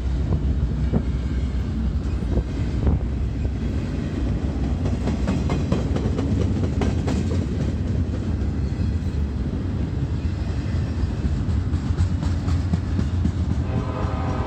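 CSX intermodal freight train rolling past, a steady rumble of the cars with light clicking of wheels over the rail. A steady tone with overtones comes in near the end.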